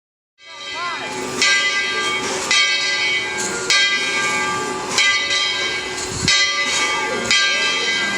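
Steam locomotive's bell ringing steadily, about one stroke a second, over the hiss of steam.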